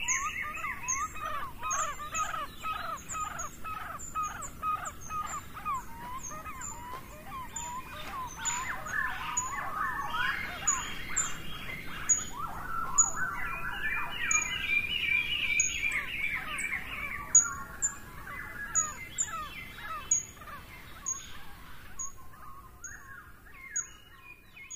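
Several birds singing and chirping: a short high chirp repeated over and over above varied warbling song. It fades out near the end.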